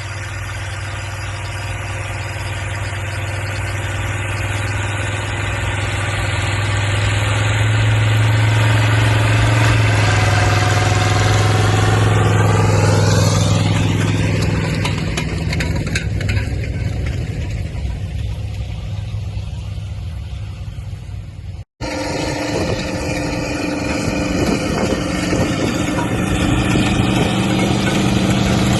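Linn tractor engine running under load. It grows louder as the tractor approaches, then drops in pitch and fades as it passes by. After a sudden cut, the engine is heard running steadily again.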